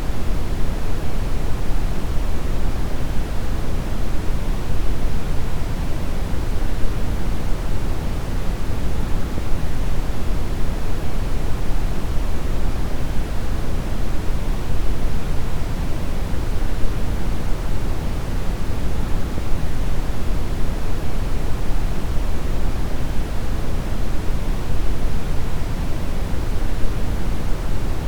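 Brown noise: a steady, even rumbling hiss, strongest in the lows, with no changes.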